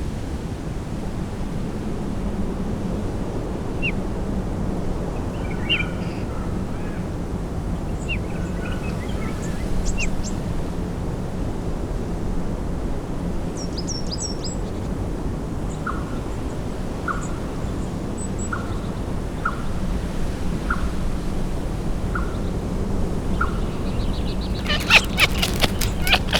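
Steady rushing outdoor noise with scattered bird chirps over it. In the second half, a bird repeats one short note about once a second. Near the end comes a burst of louder, sharp, clicking calls.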